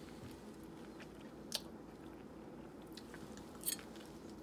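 Faint chewing of a mouthful of soft twice-baked potato, with one small click about a second and a half in and a pair of clicks near the end.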